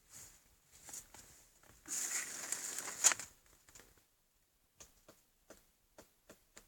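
Woodpecker pecking at old bird cherry wood: irregular single taps and knocks, with a louder scratchy rustle lasting about a second near the middle that ends in a sharp knock, then a few separate taps.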